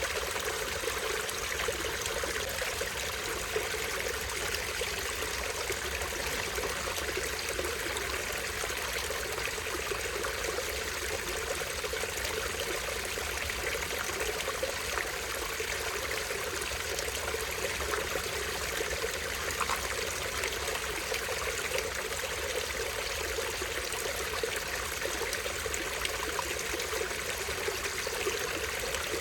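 Small stream running over a tiny waterfall, a steady trickling and splashing of water.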